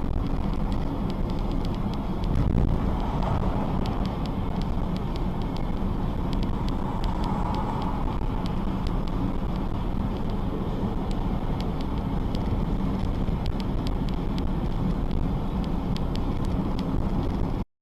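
Steady low rumble of a car on the move, road and wind noise with scattered small crackling clicks. It cuts off suddenly near the end.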